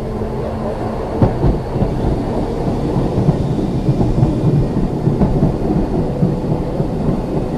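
Ex-Liverpool Corporation tram 869 running under power: a steady, dense low rumble and rattle from its wheels, running gear and traction motors, with scattered small clicks.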